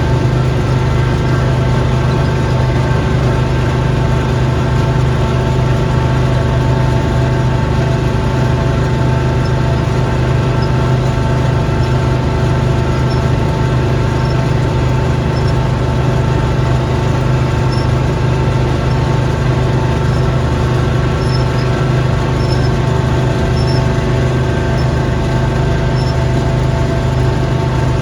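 Small gasoline engine of a snow-clearing machine running steadily at a constant speed, with an even hum throughout.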